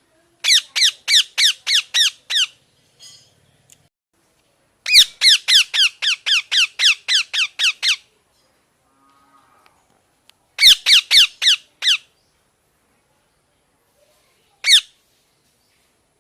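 Parrot giving loud, harsh squawking calls in repeated runs of about three calls a second, each call dropping in pitch. There are three runs of roughly seven, eleven and five calls, then one lone squawk near the end.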